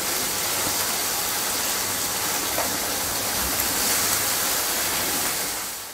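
Tomato pieces, green chillies and ginger-garlic paste sizzling in hot oil in a frying pan: a steady, even hiss.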